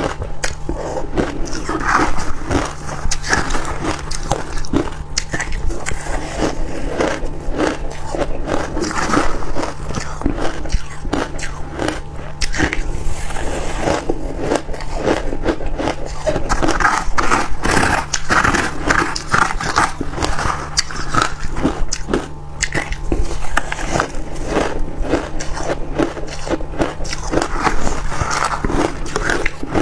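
Freezer frost being bitten and chewed close to the microphone: dense, irregular crisp crunching and crackling that continues without pause.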